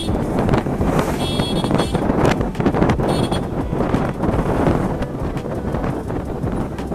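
Vehicle on the move: rumbling road and engine noise, with wind buffeting the microphone and a few brief high squeaks.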